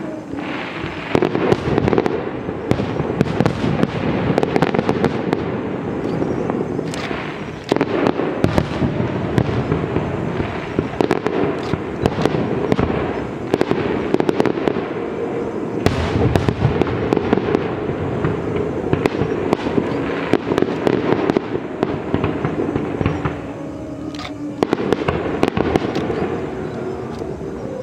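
Fireworks display: a dense, unbroken barrage of rapid bangs and crackling that eases briefly about 24 seconds in, then picks up again.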